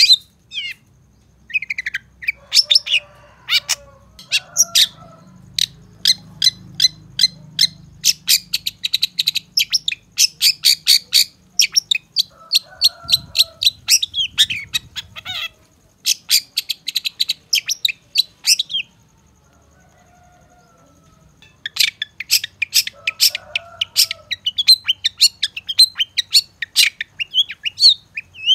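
Long-tailed shrike (cendet) song: long runs of rapid, sharp, high chirps several a second, broken by brief pauses and one longer lull in the middle.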